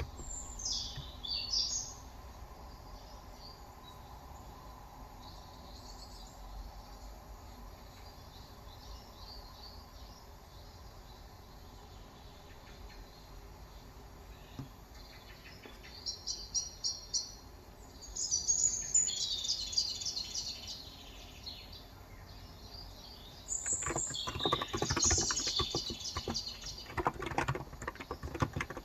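Small birds chirping in several short bursts of high notes. About 24 seconds in, a fast run of typing begins on an electro-capacitive (Topre-style) keyboard, a Cox Endeavor with 35 g switches, its keys clicking in quick succession over the birdsong.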